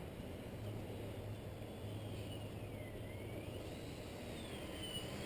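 Wind buffeting the microphone as a steady low rumble, with the faint whine of a small RC plane's electric motor sliding down and then up and down again in pitch as it flies.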